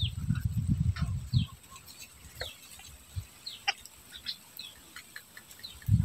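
Short bird calls and chirps, many falling in pitch, scattered through. A low rumble on the microphone during the first second and a half, and a brief low thump near the end.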